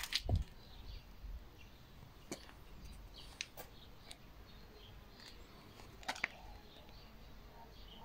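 Quiet outdoor ambience with faint, scattered small-bird chirps. A sharp click with a low thump near the start is the loudest sound, and a few more short clicks follow.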